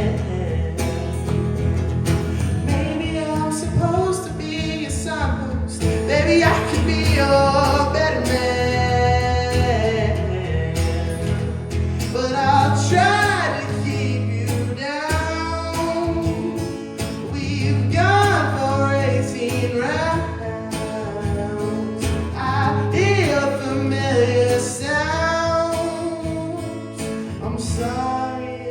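A song performed live: a singer with vibrato over sustained instrumental accompaniment, the music easing off near the end.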